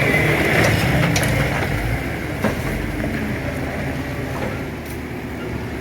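Excavator's diesel engine running under load while it works the cars, with a few faint knocks.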